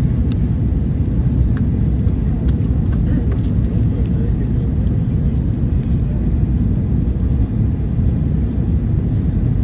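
Steady, loud low rumble of an Airbus A321-200 airliner cabin: engine and airflow noise heard from an economy window seat.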